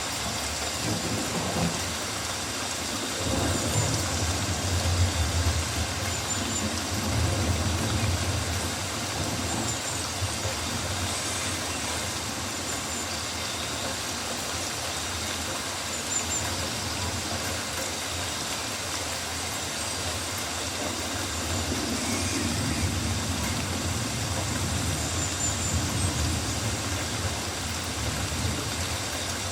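Rainforest ambience: a steady hiss of rain with a low rumble that swells and fades, and faint high chirps now and then.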